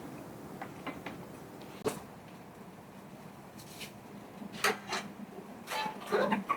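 A few scattered knocks and clatters of objects being handled: one about two seconds in, then a cluster of several near the end.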